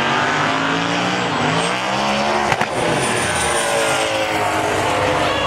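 A drag-racing car's engine revving, its pitch climbing and then falling away after a sharp crack about two and a half seconds in.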